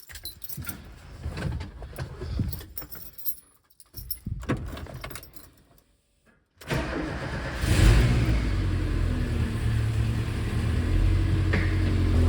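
Keys and handling noises, then about six and a half seconds in a Subaru EJ flat-four engine starts, surges about a second later and settles into a steady idle. This is the engine's first start after its hydraulic lifters were replaced.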